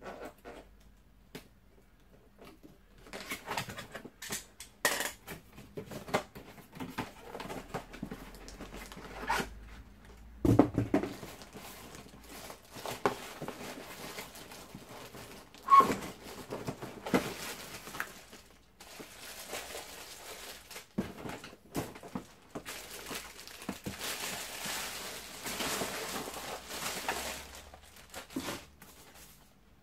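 Plastic packaging crinkling and cardboard rustling as a boxed cordless vacuum cleaner is unpacked, with a few sharper knocks as parts are handled.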